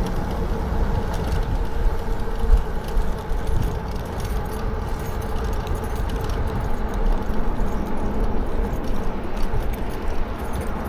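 Lectric XP4 e-bike rolling along a bike path: steady wind rumble on the microphone with a continuous light jingling rattle from the bike.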